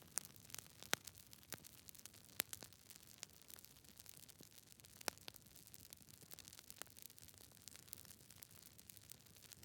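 Campfire crackling: irregular sharp pops and snaps from the burning wood over a faint, steady hiss.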